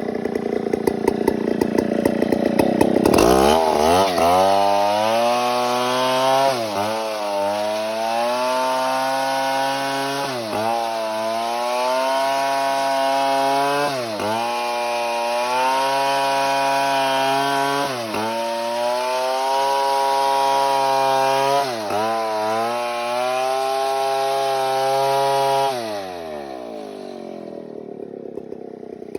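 Stihl MS 070 two-stroke chainsaw revving up to full throttle about three seconds in and held there while cutting wood. Its pitch dips briefly about every four seconds, then it drops back toward idle near the end.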